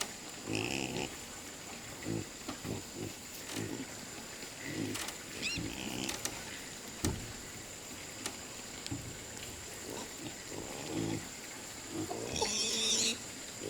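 An animal grunting in short low bursts, over and over. A bird chirps briefly about twelve seconds in.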